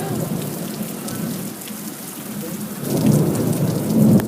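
Thunder rumbling over steady rain. The rumble eases after the start, swells again about three seconds in, and then cuts off abruptly.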